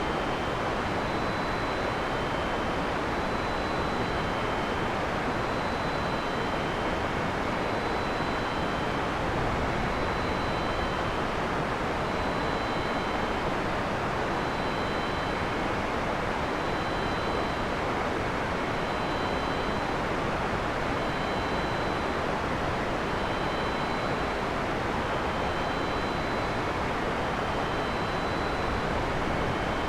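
Steady heavy rain, an even unbroken hiss with no thunder. Faint short high notes recur about once a second above it.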